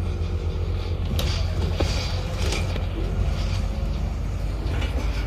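Double-decker bus running along the road, heard from inside on the upper deck: a steady low engine and road rumble with a few short rattles of the bodywork.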